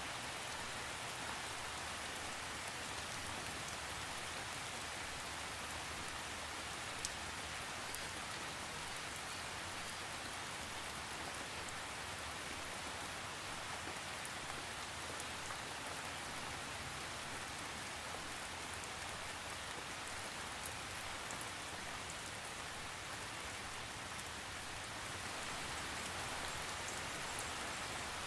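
Steady rain falling, a dense even patter with occasional single drops ticking out, and no thunder.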